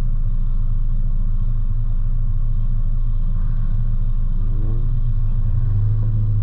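Mazda Miata's four-cylinder engine idling steadily with a low hum, heard from the open-top cockpit; the hum firms up a little near the end.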